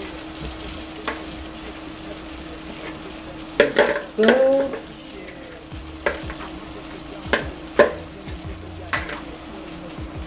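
Onions sizzling as they fry on low heat in sunflower and olive oil in a large aluminium pot. A spoon scrapes and knocks against the marinade bowl several times, loudest about four seconds in.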